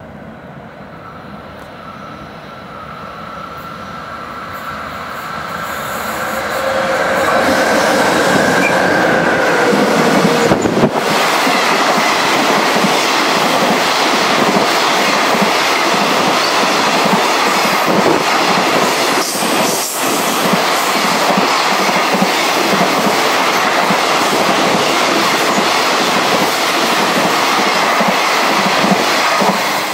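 An EF66 electric locomotive hauling a container freight train approaches and passes at speed, growing louder over the first several seconds, with a very faint horn as it comes in. A long run of container wagons follows, clattering steadily over the rail joints.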